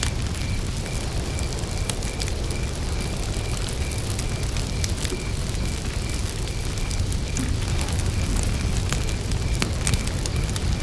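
Wood campfire burning, with a steady low rumble and scattered sharp crackles and pops. Behind it a single repeating chirp pulses evenly, about two to three times a second.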